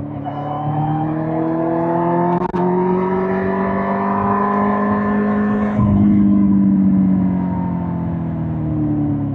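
Suzuki GSX-R1000 K5's inline-four engine under way, its note climbing steadily in pitch for about six seconds. After a brief jolt it sinks slowly as the bike eases off.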